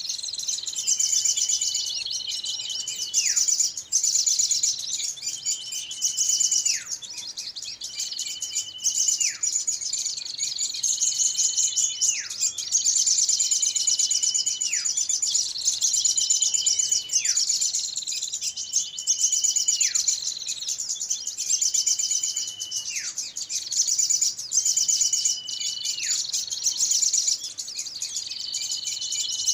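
Bird-lure recording of small birds calling noisily: a dense, rapid high-pitched chatter throughout, over which a whistled note is held and then drops sharply in pitch, repeating about every two and a half seconds.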